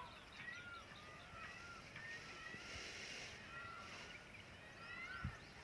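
Birds calling faintly outdoors, a scatter of short chirps that rise and fall in pitch, with a soft thump near the end.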